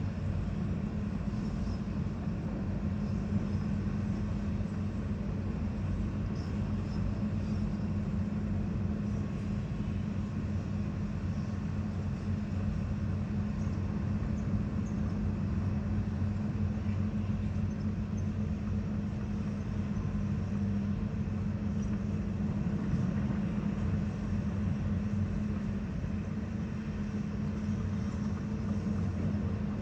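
Construction machinery engine running steadily at a constant speed, a low even hum that does not change.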